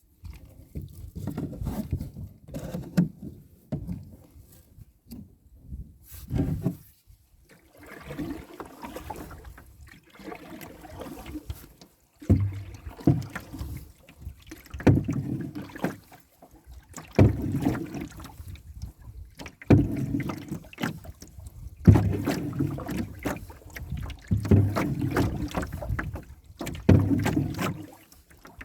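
Canoe paddle strokes in lake water, settling into a regular stroke about every two and a half seconds from about halfway through.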